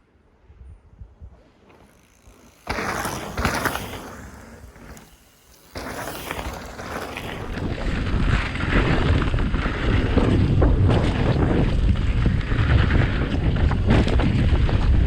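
Wind buffeting the microphone with tyre rumble as a mountain e-bike rides over a forest trail; it starts suddenly about three seconds in, dips briefly, then builds louder toward the end.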